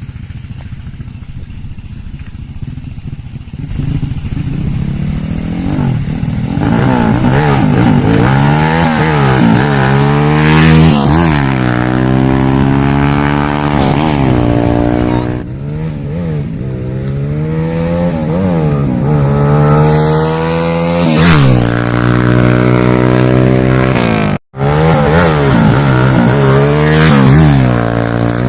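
Honda Wave motorcycle's single-cylinder four-stroke engine, fitted with a 54 mm big-bore kit, accelerating hard on a road test. Its pitch climbs and falls back again and again through the gears, and there is a brief break near the end.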